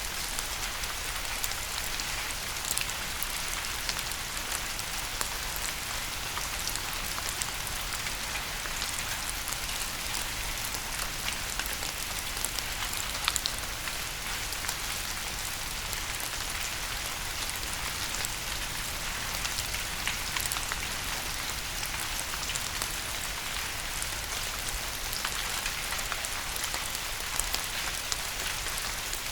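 Steady rain falling, an even hiss with many distinct drop hits scattered through it.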